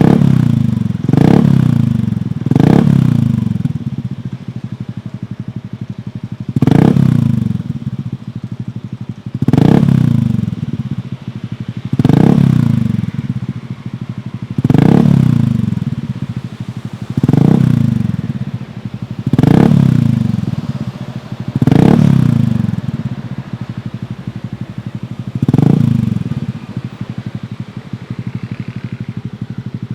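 Honda Scoopy's 110 cc single-cylinder four-stroke engine breathing through a Kenochi Racing Hunter H1 aftermarket exhaust, revved in about eleven short throttle blips that each die back to idle, then idling steadily for the last few seconds.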